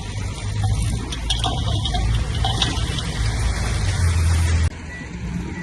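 Diesel engine of heavy earthmoving machinery running under load, a steady low rumble with intermittent clatter. It cuts off abruptly near the end to a quieter engine sound.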